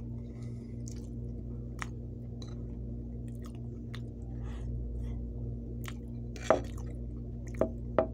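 Close-up wet chewing and mouth sounds of a person eating soft mashed food, over a steady low background hum. A metal spoon clinks sharply on the ceramic plate a few times, loudest about two-thirds of the way through and twice near the end.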